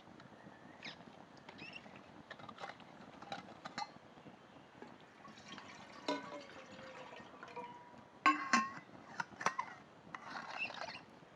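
Scattered clinks and knocks of cookware and utensils, one ringing on briefly about six seconds in, with the loudest pair of clinks a little past eight seconds.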